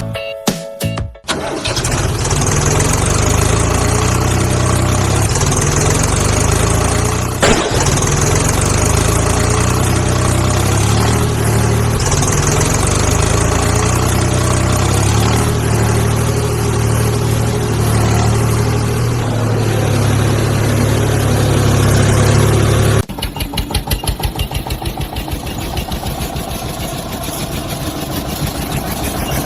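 Tractor engine running steadily and loud. After about twenty seconds it drops to a quieter, chugging idle with a rapid, even beat.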